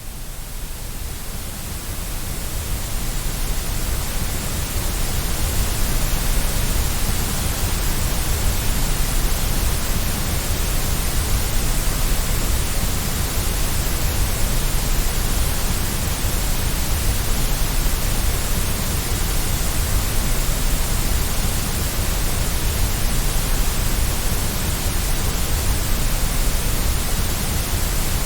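Steady white noise, a even hiss with a heavy low end, swelling up over the first few seconds and then holding constant.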